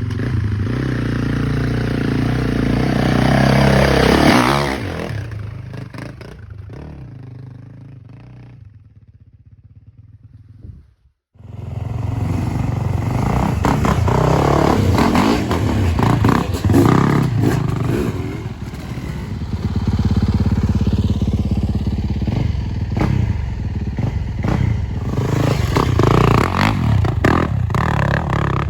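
Off-road motorcycle engine revving, rising in pitch about four seconds in, then fading away. After a brief break, a motorcycle engine runs again with the throttle rising and falling, with many sharp clattering knocks over it.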